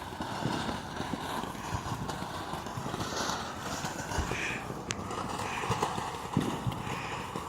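Ground firework burning with a steady hiss and scattered crackles and pops, with one sharper crack about five seconds in.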